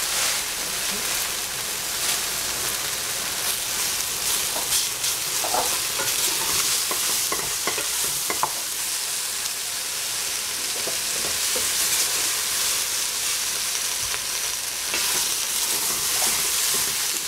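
Eggplant and prunes sizzling in oil in a stainless steel pot, with a wooden spatula scraping and knocking against the pot as the pieces are stirred.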